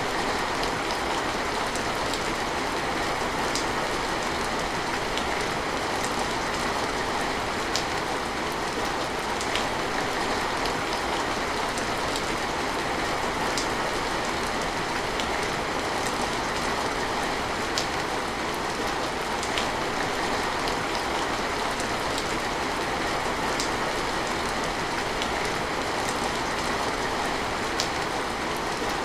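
Steady rain falling, an even hiss with scattered sharp drops pattering at irregular moments.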